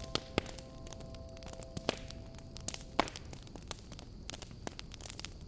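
Fireplace crackling: irregular sharp pops and snaps of burning wood over a low hiss, with the last notes of a soft held chord fading out over the first few seconds.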